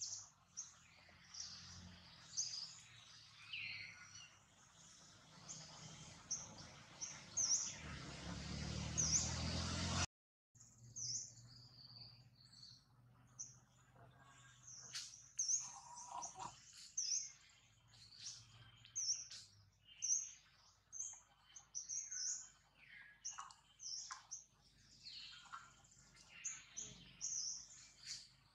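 Wild birds chirping in many short, high calls throughout. A rushing noise builds over the first ten seconds and cuts off abruptly.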